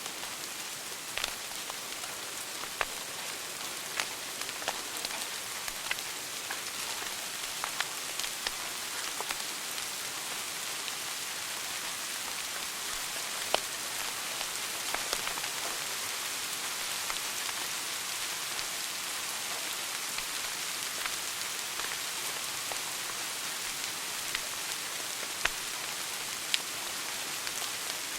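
Wood fire burning in a fireplace: a steady hissing crackle with scattered sharp pops, a few louder ones about halfway through and near the end.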